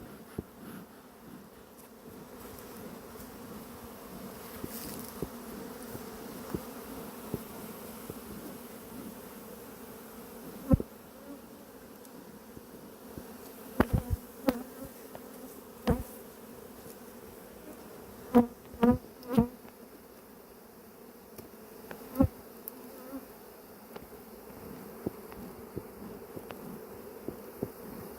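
Honeybees from an opened hive buzzing steadily in large numbers, stirred up and agitated by the disturbance. A few sharp knocks break through in the middle of the buzzing.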